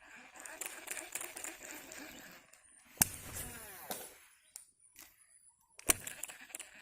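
Fishing reel handling during lure casting: rustling, then a sharp click followed by a whirr that falls in pitch as the spool spins down, and another sharp click near the end.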